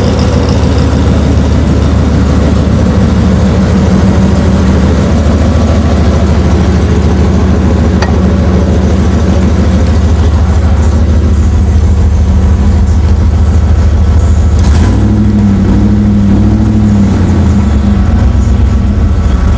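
Built supercharged 5.4-litre V8 of a Ford SVT Lightning, with Stage III cams and a Bassani full exhaust, idling loudly and steadily. Near the end it is revved briefly twice, rising and falling back to idle.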